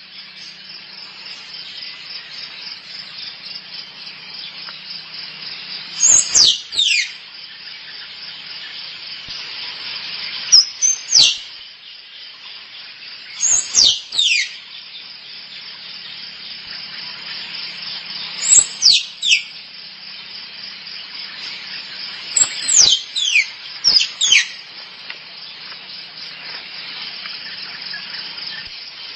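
Squirrel mating calls: five bursts of two to four sharp, high chirps, each sweeping downward in pitch, a few seconds apart. A steady high insect drone runs underneath.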